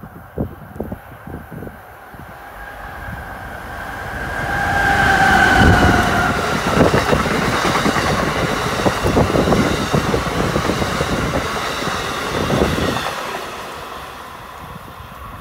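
Amtrak passenger train passing at speed. It builds up to a rush, with a high whine that drops in pitch as the head end goes by about five seconds in. Then comes a steady clatter of wheels over the rails for several seconds, fading as the train pulls away near the end.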